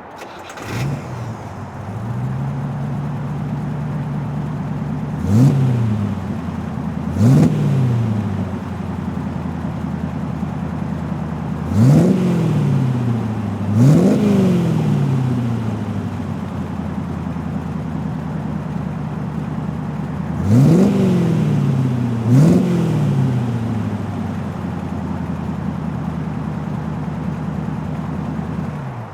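Aluminium 215 cubic-inch Oldsmobile V8 in a 1955 Austin-Healey 100-4 starting up and settling to a steady idle, with six quick throttle blips in three pairs, each revving up and falling back to idle.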